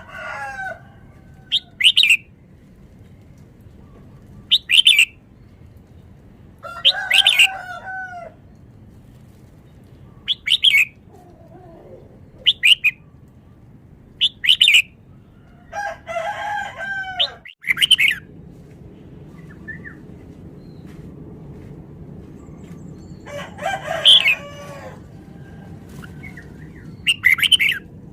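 Red-whiskered bulbul singing short, quick phrases of song about every two to three seconds.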